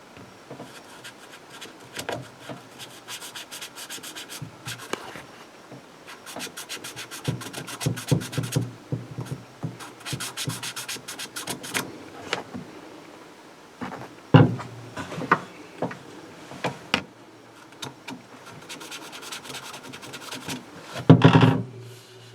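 Felt-tip marker scratching on plastic wiring plugs in quick strokes, in several spells of rapid scraping, with a couple of sharp plastic knocks, the loudest near the end.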